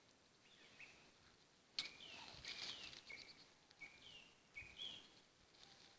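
Faint songbird calls in woodland: a run of short chirps and downward-sliding whistles repeated every half second or so, with a single sharp click a little under two seconds in.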